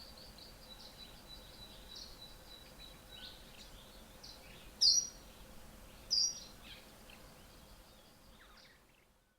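Small bird chirping outdoors: a run of soft, quick high chirps, then two sharp, louder chirps about a second apart midway through. A thin, steady high whine sounds for the first three seconds.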